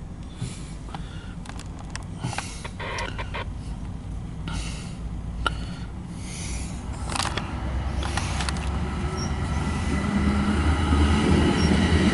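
MARC commuter train approaching, its diesel locomotive's engine growing steadily louder, especially over the second half.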